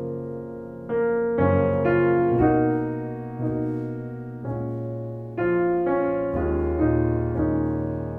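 Solo piano music, slow and gentle, with chords struck about once a second or two and left to ring and fade.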